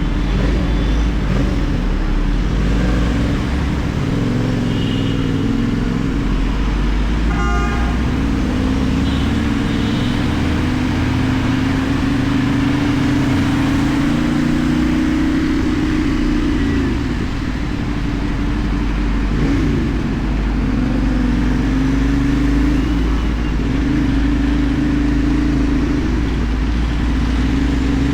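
CFMoto 450NK's parallel-twin engine running under way, its pitch rising and falling with throttle and gear changes, with a dip and pitch sweeps in the second half. About seven seconds in, a vehicle horn toots briefly.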